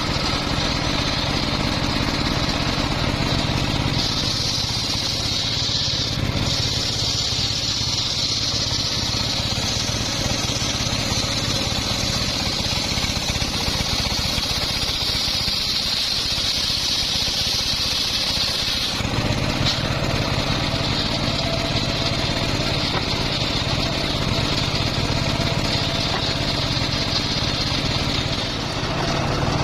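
Homemade engine-driven circular sawmill running. From about four seconds in until about nineteen seconds a loud high hiss joins as the blade cuts through a teak log, then the saw runs on freely.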